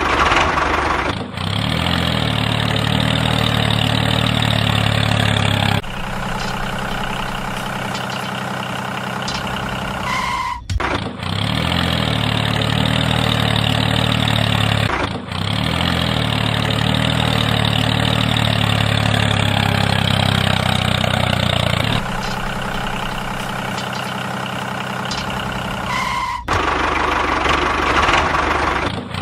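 A small engine or motor running steadily in a low, even drone. The sound changes abruptly several times, about a second in and again around 6, 11, 15, 22 and 26 seconds, as one machine clip gives way to another.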